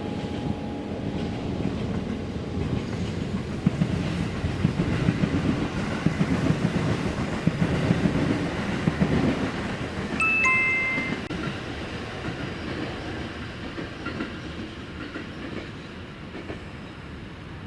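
A train passing on the rails with a rumble and wheel clatter. About ten seconds in comes a short two-note horn blast, high then slightly lower, before the rumble fades away.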